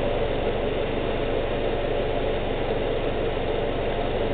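2012 Subaru Outback's engine idling steadily, left running so the CVT fluid is warm for its level check.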